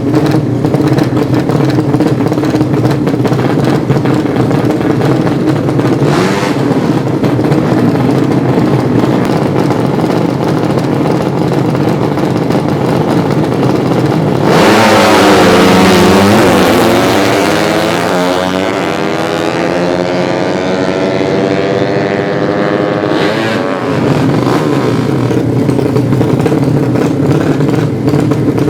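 A 200cc underbone drag-racing motorcycle passes at full throttle about halfway through, loud at first and then falling in pitch as it pulls away, over steady engine noise.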